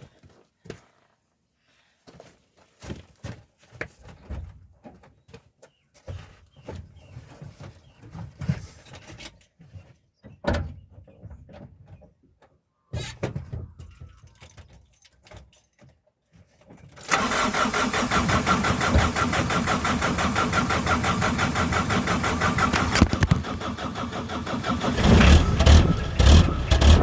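Cold start of a 2005 Mitsubishi Triton diesel ute with dead glow plugs: after scattered faint knocks and clicks, the engine catches about 17 seconds in and runs steadily, turning louder with a low, throbbing beat from about 25 seconds.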